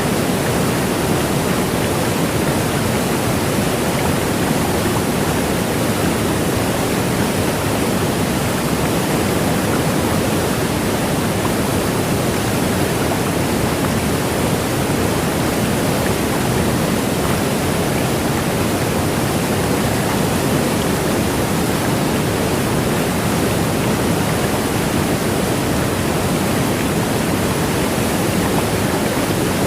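A large waterfall: a steady, loud rush of falling water that holds even throughout.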